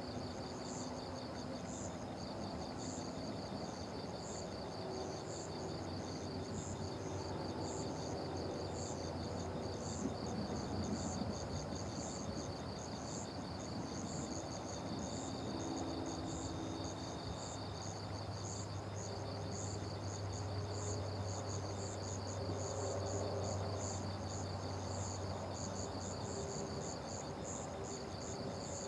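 Night insects chirping steadily: one keeps up a fast, even high trill while another gives slower, higher chirps over it. A faint low hum comes in about two-thirds of the way through.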